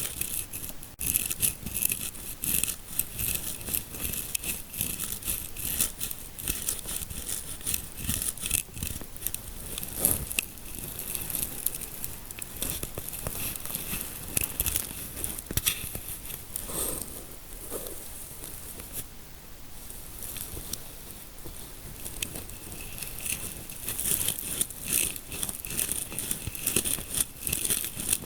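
Close-miked fingertips scratching and rubbing in a scalp massage, a constant crackly scratching of quick strokes. It goes quieter for a few seconds in the middle, then picks up again near the end.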